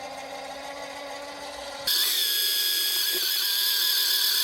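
Mini lathe running, then about two seconds in a louder, higher sound with a steady whine as a drill bit bores into the metal workpiece.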